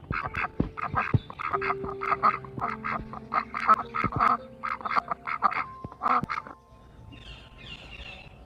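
Ducks quacking, many short calls in quick succession, until they stop about six and a half seconds in; fainter, higher bird calls follow.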